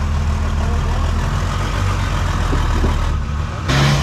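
Nissan Patrol GU four-wheel-drive's engine running steadily on an off-road track. About three and a half seconds in, the sound jumps abruptly to a louder engine with a higher steady note.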